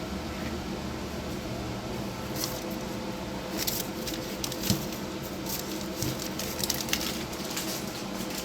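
TIG welding of a stainless steel exhaust pipe under an argon back-purge: a steady hum of the welding setup, with irregular crackling from about two seconds in.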